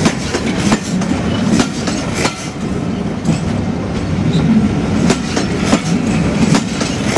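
Passenger coaches of a steam-hauled train rolling slowly past at close range. A steady low rumble runs under irregular sharp clicks and knocks of the wheels on the track.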